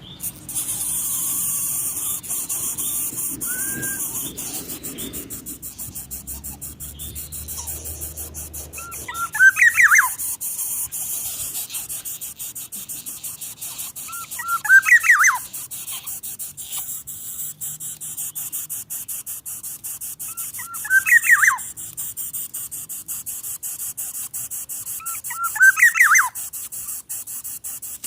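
A bird calling four times, about five seconds apart, each call a short burst of quick whistled notes that sweep up and down, over a steady high hiss.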